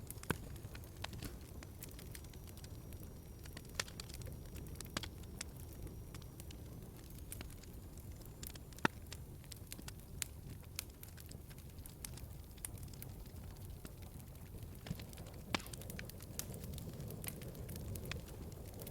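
Wood fire burning in a fireplace: a steady low rumble of flames with scattered sharp crackles and pops, one louder pop about nine seconds in.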